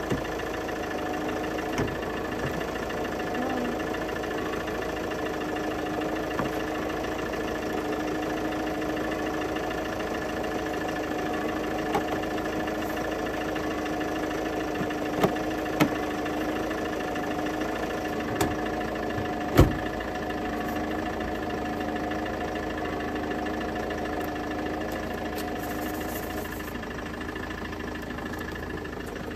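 Ford Kuga diesel engine idling steadily, with a light knocking clatter. A few short, sharp knocks and clicks from work at the front of the car, the loudest about two-thirds of the way through.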